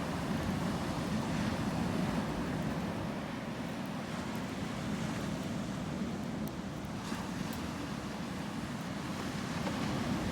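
Sea waves washing on the shore: a steady, low rush of surf, with a few faint high ticks about seven seconds in.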